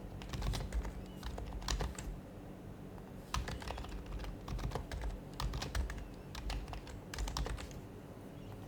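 Typing on an HHKB Professional HYBRID Type-S keyboard, its silenced Topre keys giving soft, muted clicks in quick bursts with short pauses between.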